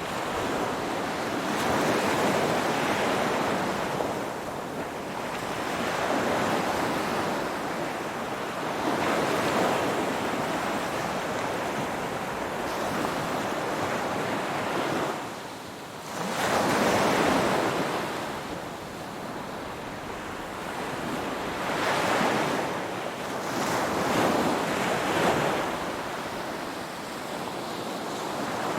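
Ocean waves breaking and washing on the shore, a continuous surf hiss that swells and eases every few seconds, with a short lull just before a stronger wave about halfway through.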